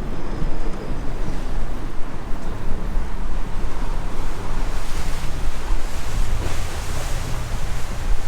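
Strong wind buffeting the microphone over the rush of open water around a boat.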